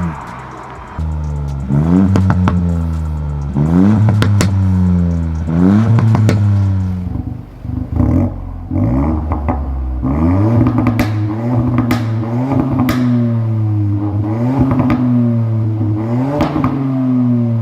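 Ford Fiesta ST Mk8's 1.5-litre three-cylinder turbo engine revved in a series of quick blips, its exhaust note climbing and falling back about every second and a half, with crackles and pops as the revs drop.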